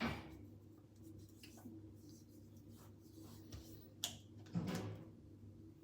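Quiet handling of small skincare bottles and containers: a sharp click at the start, another click about four seconds in and a short rub just after, over a low steady hum.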